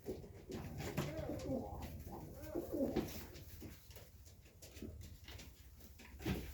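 Serbian Highflyer pigeons cooing, low wavering calls through the first three seconds, with a few sharp taps in between.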